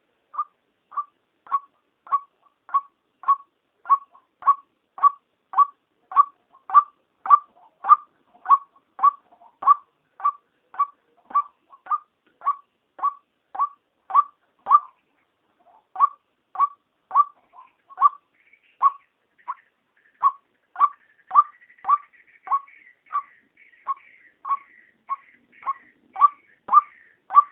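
White-breasted waterhen calling, the female's voice used as a lure call to draw waterhens in: one short note repeated about twice a second, with a brief break about halfway. A fainter, higher chattering joins about two-thirds of the way through.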